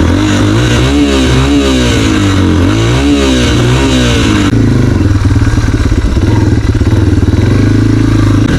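Dirt bike engine warming up, revved in four or five quick blips that rise and fall, then running steadily at a higher, slightly louder pitch from about halfway.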